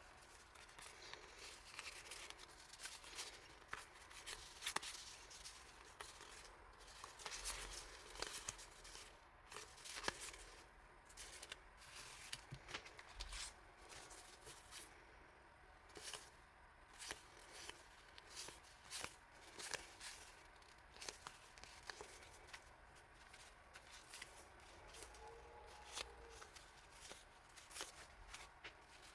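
Faint handling of paper and plastic stationery packaging: irregular rustles with small clicks and taps.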